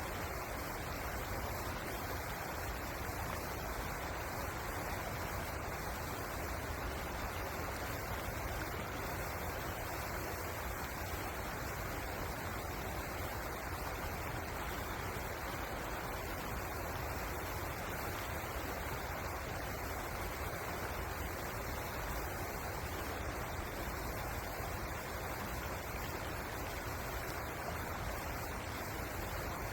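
River water flowing, a steady, even rush with no change.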